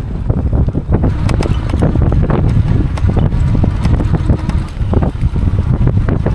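Strong wind buffeting the microphone while riding: a loud, irregular low rumble broken by many short crackles.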